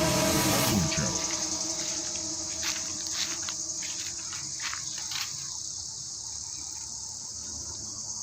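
Steady high-pitched chorus of insects, with a few light ticks about three to five seconds in. A louder rumbling sound fades out during the first second.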